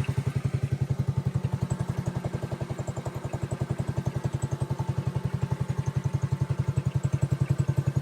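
A motor running steadily in the background, with an even pulse of about ten beats a second.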